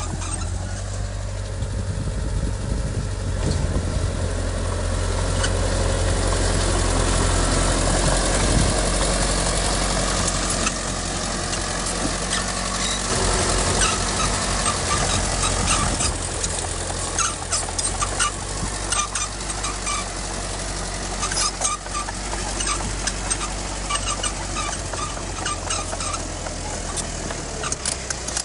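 Heavy diesel earthmoving machinery running steadily, louder for several seconds early on as it works. Sharp clanks and rattles come more often in the second half.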